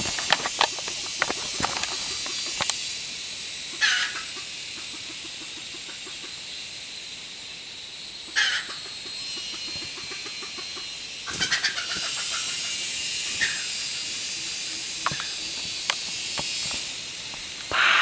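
A few short, separate chicken-like clucking calls, about five spread across the stretch, over a steady high-pitched insect hiss in the jungle.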